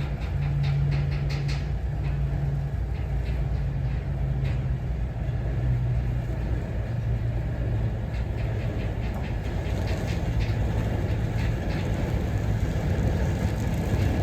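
Class 08 diesel shunter, its English Electric six-cylinder diesel engine running with a steady low drone. Runs of rapid clicking come through near the start and again about ten seconds in.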